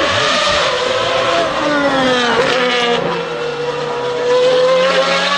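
Rear-wheel-drive V12 supercar engine running hard on track. Its pitch drops about two seconds in, then holds and slowly climbs again.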